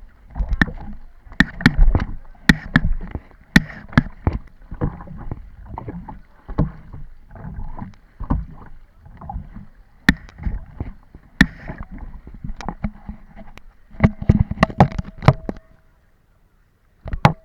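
Kayak paddling: water splashing and sloshing, with frequent sharp, irregular knocks. The sound stops abruptly about two seconds before the end, then one more click.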